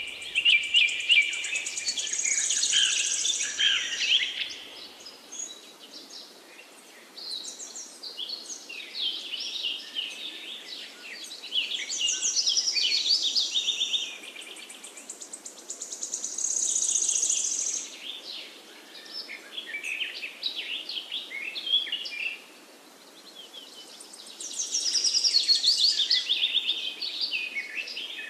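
Songbirds singing in a forest: high, fast phrases of many quick notes, each lasting a few seconds and coming again after short pauses, over a faint steady background hiss.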